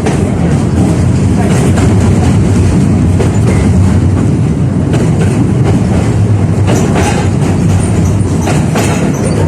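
A 71-605A (KTM-5A) tram running along the track, heard from inside the car: a steady loud rumble of wheels and running gear, with a few sharp clacks over rail joints in the second half.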